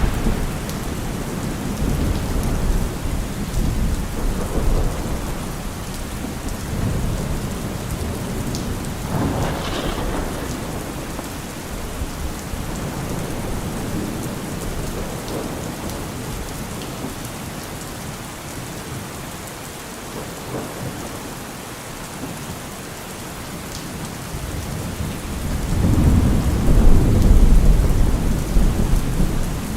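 Heavy rain pattering steadily on a car roof, with thunder rolling. A rumble fades out at the start, a shorter one comes about ten seconds in, and a long, loud low rumble builds near the end.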